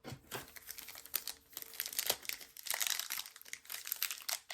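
Crinkling and tearing of a trading-card pack wrapper as a pack of football cards is opened, a dense run of small crackles.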